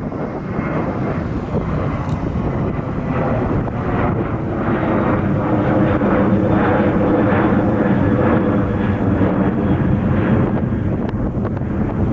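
Airliner's jet engines passing close by, the rumble swelling over several seconds, holding loud with a steady engine tone, then easing off near the end.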